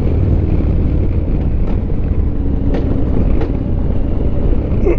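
Motorcycle engine running at low speed, heard through a helmet-mounted microphone with a steady low rumble and a few light clicks.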